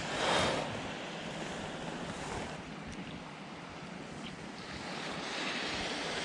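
Small waves washing onto a beach, a steady surf hiss that swells about half a second in and again near the end.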